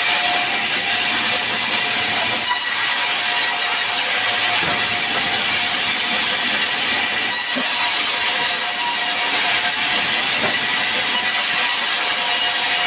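Sawmill saw running, a steady loud hiss with a faint whine underneath.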